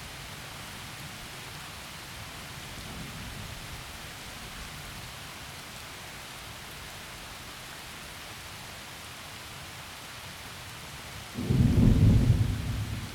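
Heavy rain falling steadily, with a faint low rumble of thunder about three seconds in. Near the end a loud clap of thunder breaks in and rumbles for a second or two before fading.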